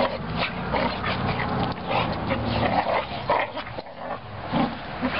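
A Standard Schnauzer and a black Labrador play-fighting, with many short barks and yips in quick succession over a low, steady hum.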